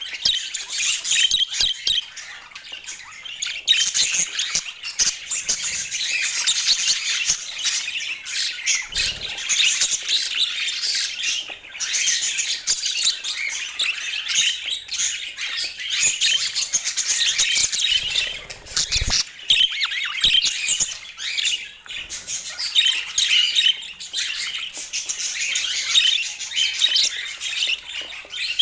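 Budgerigars chattering and warbling without a break: a dense run of quick chirps and squawks.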